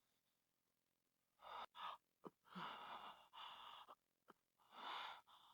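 A person breathing in heavy, gasping breaths, several in a row, starting about a second and a half in.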